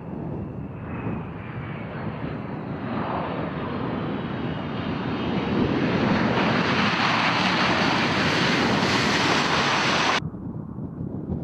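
Boeing C-17 Globemaster III's four turbofan engines at takeoff power: the jet noise builds steadily louder for about six seconds, with a faint whine falling in pitch near the start. It then cuts off abruptly about ten seconds in, leaving only wind noise.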